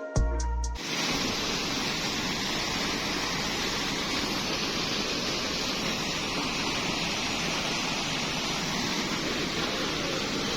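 Steady, even rush of a fast mountain river running over stones.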